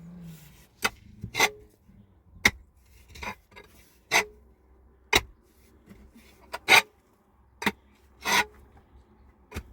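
A series of sharp knocks, irregular at roughly one a second, several of them followed by a short rasping scrape.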